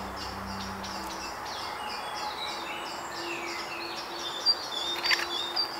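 Birds chirping in woodland: a rapid, steady run of short high calls, with two sharp clicks about four and a half and five seconds in.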